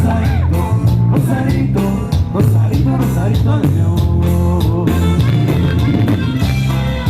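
A live norteño band playing a cumbia: a strong bass line under a steady beat, with a lead melody and singing.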